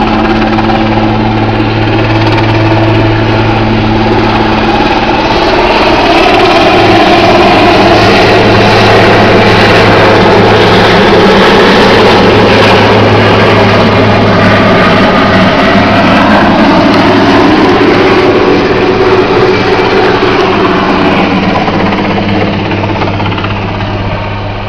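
Helicopter flying low overhead, its engine and rotor noise steady and loud, peaking in the middle and fading near the end as it moves away.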